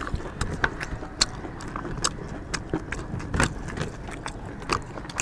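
Close-up chewing of chicken curry and rice: irregular wet clicks and smacks, a couple to a few each second.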